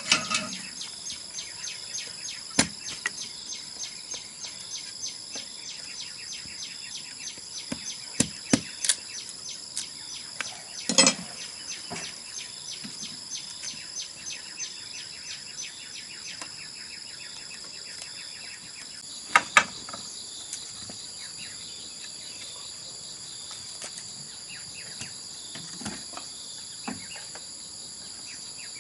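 A steady chorus of insects, shrilling in fine rapid pulses, with scattered sharp knocks and taps, the loudest a quick pair about two-thirds of the way through.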